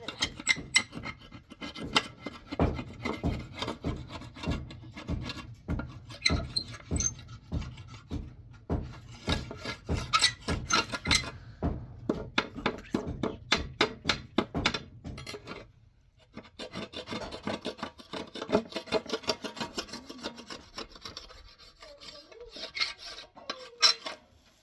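Repeated rasping, scraping strokes of a hand tool worked against a rough surface, about two a second, with a brief pause about 16 seconds in.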